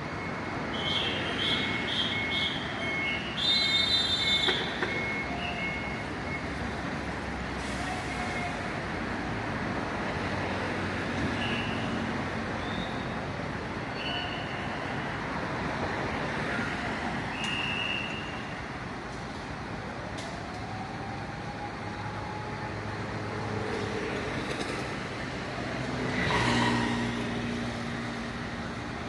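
Street traffic noise of vehicles running by, with a row of short high beeps in the first few seconds. Near the end a louder vehicle passes.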